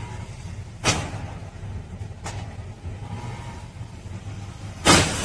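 Car driving, a steady low engine and road rumble, with sharp knocks about one and two seconds in and a loud bang near the end, followed by a steady hiss.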